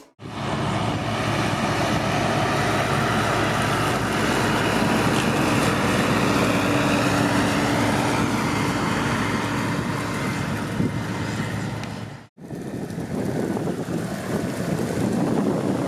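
Heavy farm machinery running steadily: a diesel engine's hum with wind on the microphone. The sound breaks off for a moment about twelve seconds in and picks up again as a slightly different engine sound with more wind.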